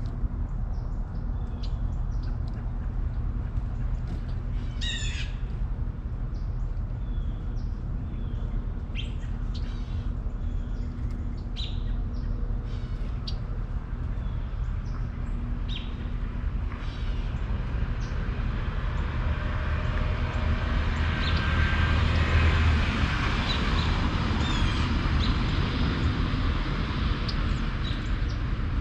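Outdoor ambience with birds calling and chirping in short, scattered calls over a steady low rumble. About two-thirds of the way through, a rushing noise swells up, then fades away again.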